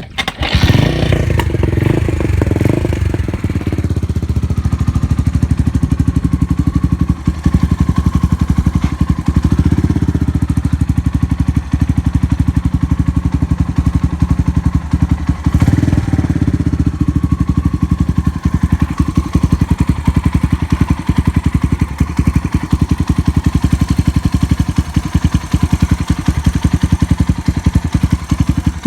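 Suzuki Grasstracker's single-cylinder engine running through an aftermarket Supertrapp 4-inch megaphone full exhaust. It catches and runs up at the very start, then settles into an even, loud idle with a few short rises in revs. The engine runs with no unusual noise.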